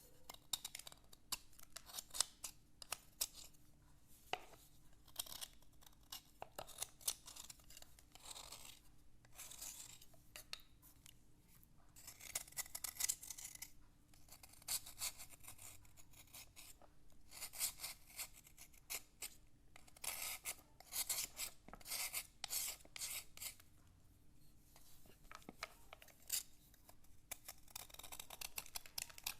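Slate being scraped and scratched in many short, gritty strokes that come in quick irregular runs with brief pauses.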